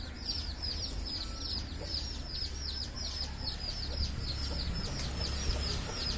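A bird peeping steadily: short, high, falling chirps, about four a second, over a steady low rumble.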